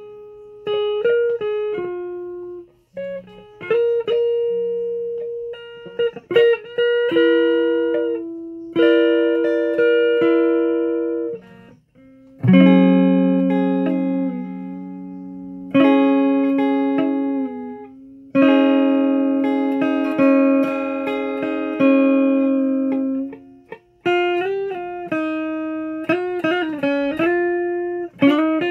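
A guitar picking out a slow, halting melody, one or two notes at a time, each note ringing and fading, with short breaks between phrases.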